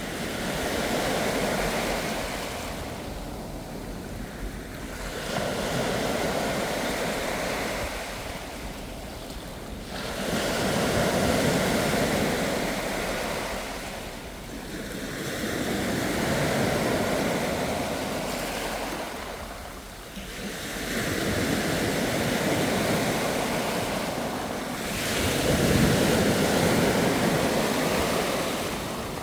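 Ocean waves surging and washing in over and over, swelling and ebbing about every five seconds.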